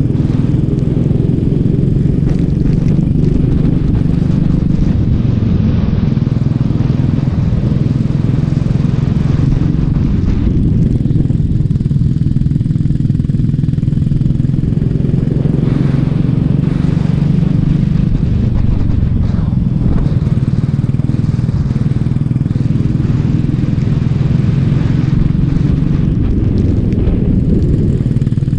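Racing kart engine running steadily under load, with a low, even note and no clear revving up or down.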